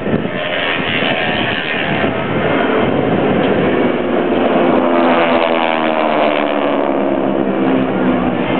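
Piston engines of WW2-era aircraft flying past. The engine note drops in pitch as they go by.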